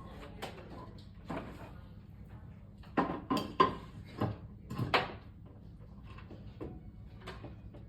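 A quick run of about five knocks and clatters a few seconds in, as objects are handled and set down.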